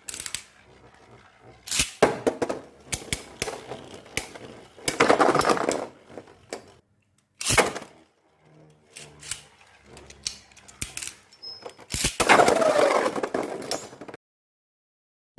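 Beyblade Burst spinning tops clashing in a plastic stadium: sharp hits and clicks, with longer stretches of rattling, scraping contact as they grind against each other and the stadium walls.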